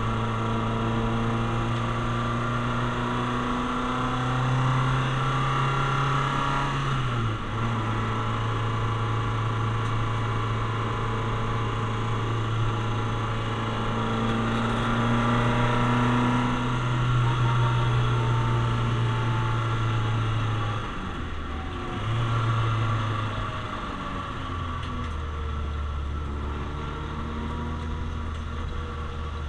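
Citroen Saxo VTS's 1.6-litre 16-valve four-cylinder engine heard from inside the cabin, pulling hard at high revs. Its pitch drops suddenly with gear changes about seven seconds in and again about twenty-one seconds in, and it runs lower and quieter in the last few seconds.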